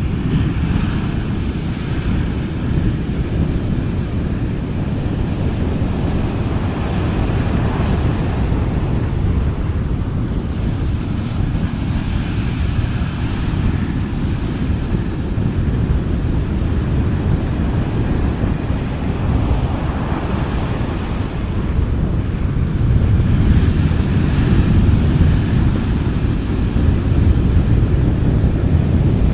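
Gentle sea waves washing onto a beach: a soft hiss of surf that swells and fades every few seconds over a steady low rumble of wind on the microphone.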